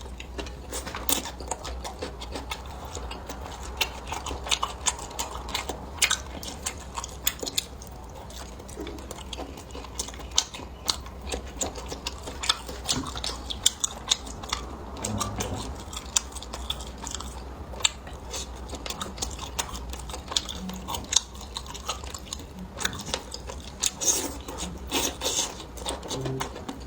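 A person chewing and biting food close to the microphone: many small, irregular, sharp mouth clicks and chewing sounds, over a faint steady low hum.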